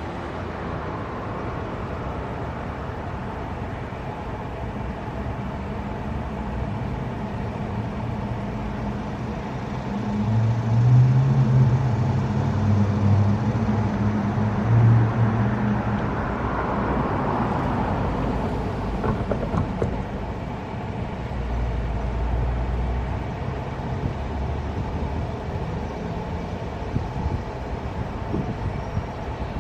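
CSX diesel freight locomotives passing: a low diesel engine drone builds, is loudest around ten to sixteen seconds in, and then gives way to the rumble of a mixed freight train rolling by with repeated wheel clicks.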